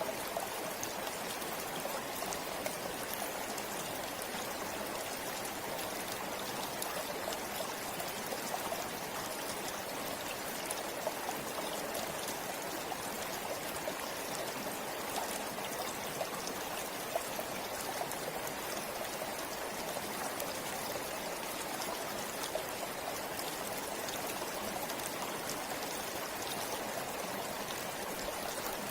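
A forest river or stream flowing over rocks: a steady rush of running water with small splashes and trickles.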